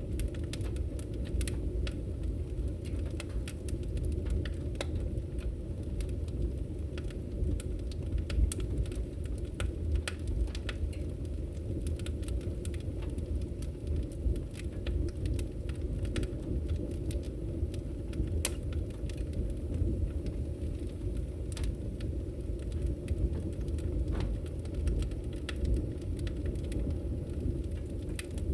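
Campfire burning with a steady low rumble and irregular sharp crackles and pops.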